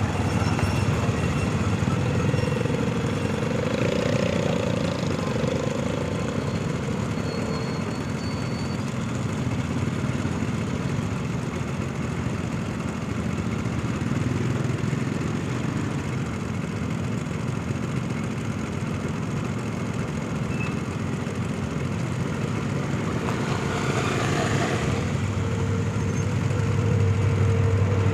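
Steady low diesel engine noise that grows louder near the end, as the CSR diesel locomotive hauling the freight train draws near.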